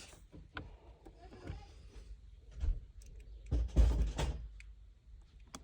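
Handling noise of small AC control knobs and their parts: scattered light clicks, with a louder brief rustling scrape about three and a half seconds in.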